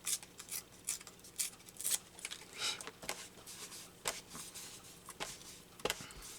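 Scrap paper being handled and torn by hand: a string of short, irregular rustles and rips.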